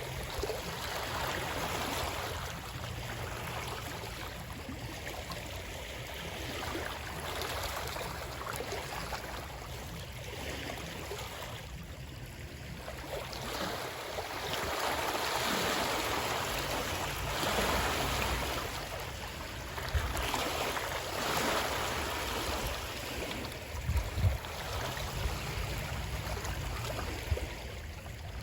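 Running water, a steady rushing that swells and eases every few seconds, with a few brief low thuds in the second half.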